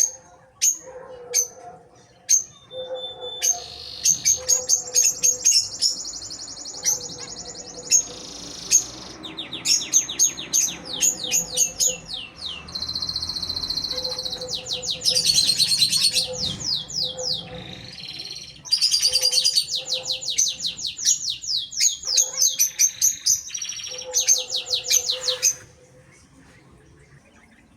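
Small birds singing: sharp high chirps, then long runs of fast trills and quickly repeated high notes, dying away about two seconds before the end.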